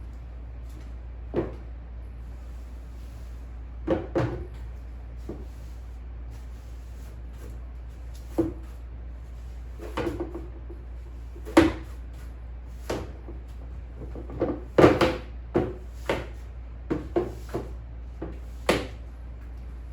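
A string of irregular knocks and clunks of household things being handled, set down, opened and shut, over a steady low hum.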